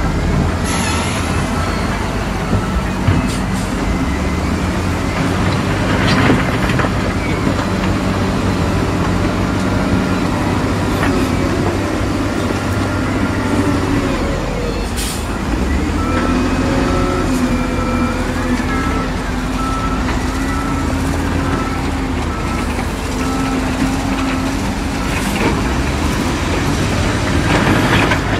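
Heavy earthmoving machinery engines running and changing speed, with a repeating reversing beeper sounding for stretches and a few short hisses.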